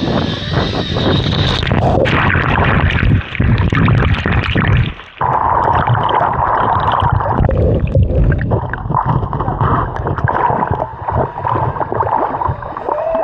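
Zip-line trolley running along the cable with a steady high whine, over heavy wind rumble on the microphone. The sound cuts out briefly about five seconds in.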